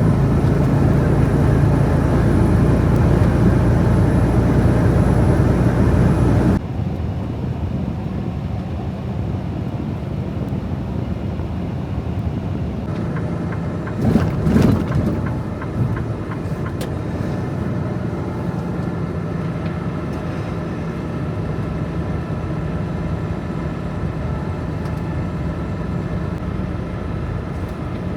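Truck on the move: steady engine and road noise with a low engine hum. The level drops suddenly about six and a half seconds in, and a brief louder rattle or thump comes about halfway through.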